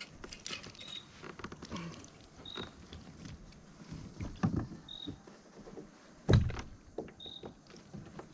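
Bumps and knocks against a kayak's plastic hull, the loudest about six seconds in. A short high chirp recurs every one to two seconds.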